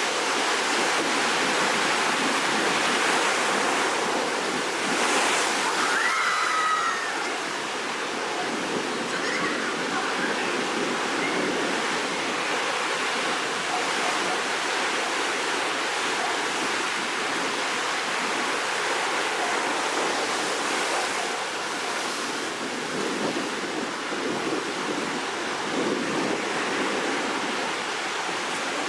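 Rough sea ahead of a typhoon: surf breaking and washing on the shore in a steady, loud rush that swells and eases.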